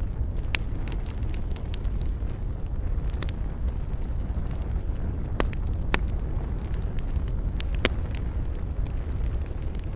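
Wood fire burning in a fireplace: a steady low roar of flames with scattered sharp crackles and pops, a few louder ones now and then.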